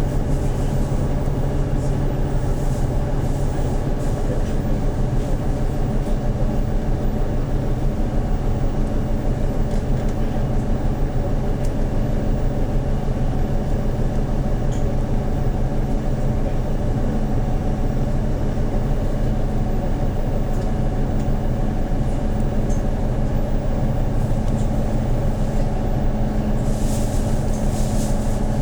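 The engine of a 2013 Hyundai New Super Aero City CNG city bus, heard from inside the cabin, running steadily with a continuous drone. A slightly higher steady tone joins about four seconds in, and there are light rattles near the end.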